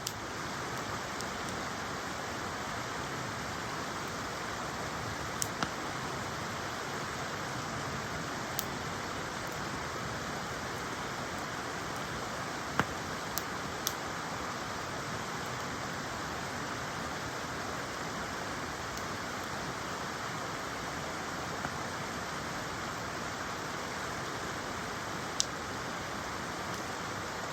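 Wood campfire burning: a steady crackling hiss, broken by a few sharp pops from the wood, the loudest about halfway through.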